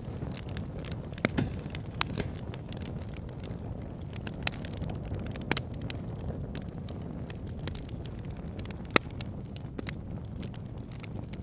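Wood fire burning in a fireplace: a steady low rumble of flames with irregular sharp crackles and pops from the burning wood, a few louder snaps standing out.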